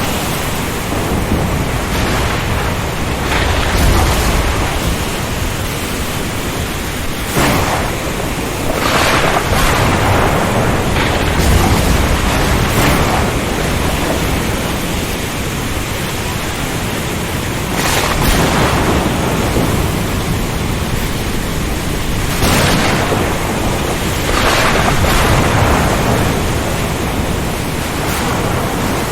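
Ocean storm: a steady, loud rush of wind, rain and sea, swelling in surges every few seconds, with low rumbles of thunder.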